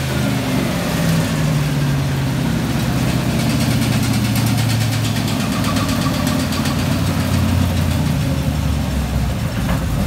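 Chevrolet 6.0 L LQ4 LS V8 with a Texas Speed stage 1 camshaft running steadily at idle on an engine dyno cart, its revs having just dropped back from a pull.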